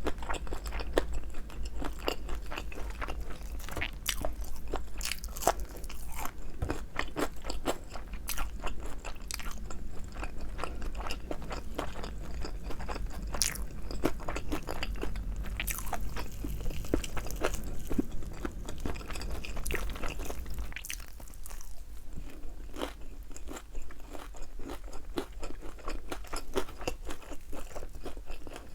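Close-miked crunching and chewing of Korean fried chicken wings with a thin, crispy batter: a steady stream of irregular crackly bites and crunches.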